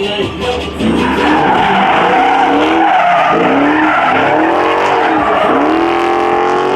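Muscle car engine revving hard while its rear tyres spin and squeal against the pavement. The engine pitch sweeps up and down about once a second, over a steady loud tyre roar that starts about a second in.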